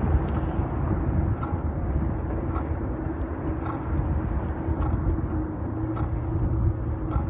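Rolling road and wind noise of a fixed-gear bike ride, picked up by a phone mounted on the bike: a steady low rumble with a steady hum, and a light click about once a second.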